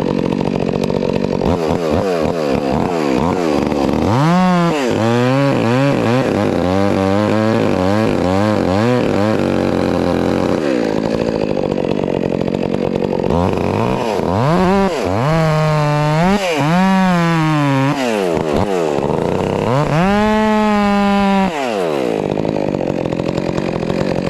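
Stihl MS 400 C two-stroke chainsaw bucking a maple or chestnut oak log: idling, then revving up and dipping in pitch under load through a cut, back to idle, a second cut, and a short high rev near the end before dropping back to idle.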